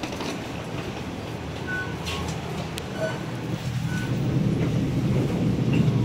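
Low rumble of an MTR train running through the station, growing louder about four seconds in. Short high beeps repeat about once a second over it.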